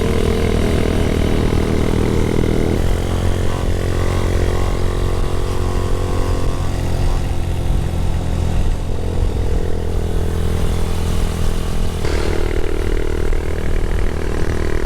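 Motorcycle engine running while riding, with wind and road noise. The engine note steps down about three seconds in and rises again near the end, as with gear changes and throttle changes.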